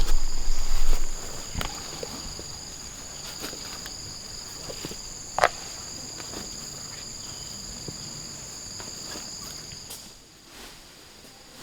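Insects buzzing steadily at a high pitch until they stop about ten seconds in. Low thumps are heard in the first second, and scattered clicks and one short sharp knock come around the middle.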